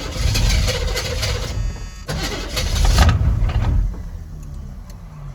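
Pickup truck's straight-piped engine cranked on the starter and firing briefly, running rough for a few seconds before dying away near the end. It won't keep running, which the owner puts down to water in the fuel.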